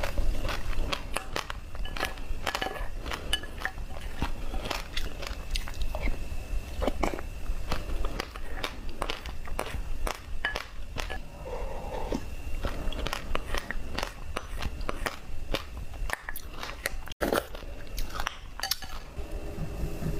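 Close-miked chewing of passion fruit pulp and seeds, with rapid, irregular crunches and small wet mouth sounds.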